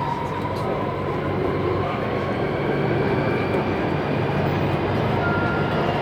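Circle Line MRT metro train running between stations, heard from inside the carriage: a steady rumble and rail noise with a low hum, and a thin high whine that rises slightly in pitch and fades about a second in.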